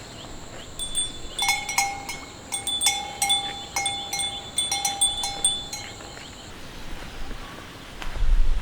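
Metal chimes or small bells struck in a quick, irregular run, each strike ringing at the same few fixed pitches, stopping about six seconds in. A loud low thudding starts near the end.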